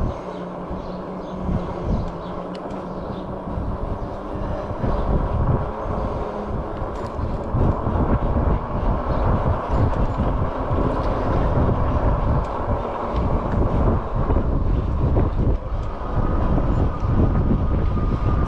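A Lectric e-bike riding on throttle: wind rumbling on the microphone over tyre and motor noise, with a faint steady whine, growing louder about five seconds in.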